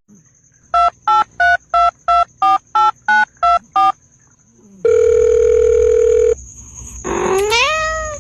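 Touch-tone phone dialing: about ten short two-tone keypad beeps at roughly three a second, followed by a steady electronic tone. Near the end comes a brief rising pitched sound.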